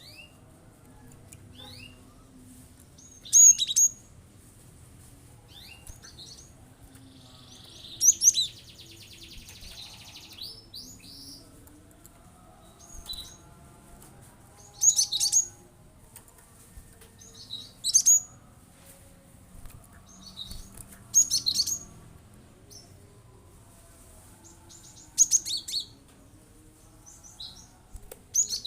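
Cinereous tit (gelatik batu) calling in short, sharp, high-pitched bursts about every three to four seconds, with a buzzy rattle a little after eight seconds in.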